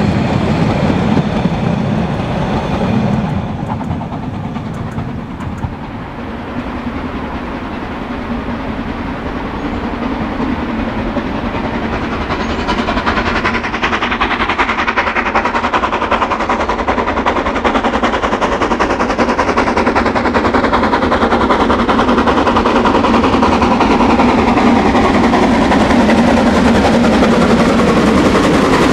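Narrow-gauge steam train running. The sound dips a few seconds in, then grows steadily louder to the end.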